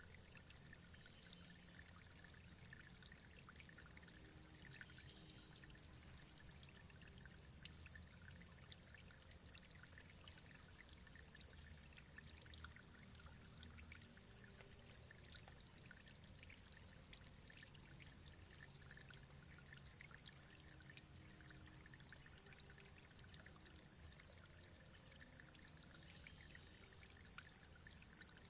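Faint, steady running water, like a small stream, with many tiny splashes scattered through it.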